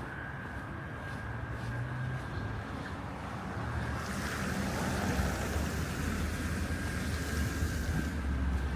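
City street traffic noise on snowy roads: a steady low rumble of cars that grows louder and hissier from about halfway through, with a faint thin steady tone above it.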